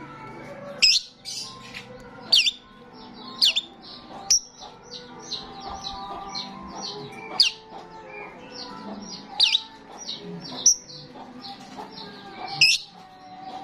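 Starling singing busily: a steady run of quick chattering chirps, cut through by about eight loud, sharp whistled notes.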